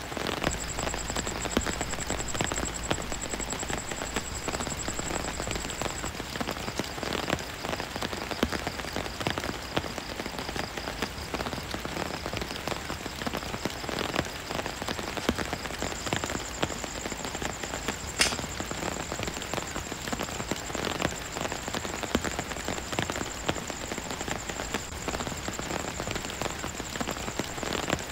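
Heavy rain pattering steadily on a tent's fabric, a dense patter of drops. A single sharp click stands out about two-thirds of the way through.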